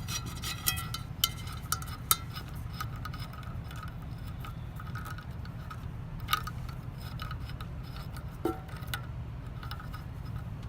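Scattered small clicks and clinks of wiring being pushed back into an electrical box by hand, with a few sharper clicks in the first two seconds and another about six seconds in, over a steady low hum.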